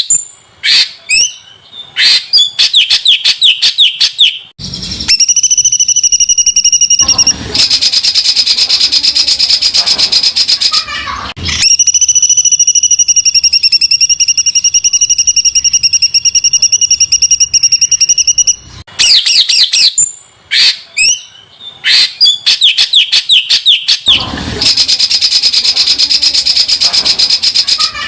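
A songbird singing a harsh, very fast rattling trill, the coarse 'tembakan' song prized by bird keepers. Short bursts of quick chattering notes and sweeps alternate with long, dense buzzing trills of several seconds, the longest about seven seconds in the middle.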